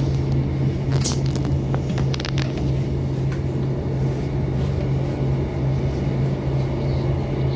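Steady low rumble of a moving vehicle heard from inside, with a constant low hum. A few short clicks or rattles come between about one and two and a half seconds in.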